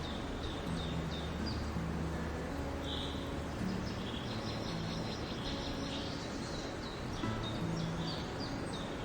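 Several songbirds chirping and calling in quick short notes over a steady outdoor background hiss, with soft sustained music notes faintly underneath.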